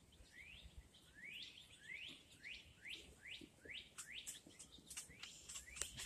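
Faint bird song: a quick run of short, rising whistled notes repeated over and over, with sharp chip notes near the end.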